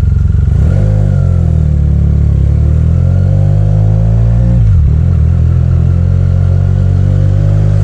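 Benelli TNT 300's parallel-twin engine running loud through a Yoshimura aftermarket exhaust while riding. The note climbs, drops about five seconds in, then climbs and holds again.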